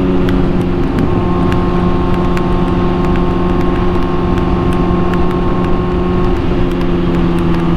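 Honda CBR600RR's inline-four engine running at steady cruising revs while riding, with wind rushing on the microphone. The engine note dips briefly about a second in and shifts slightly near the end.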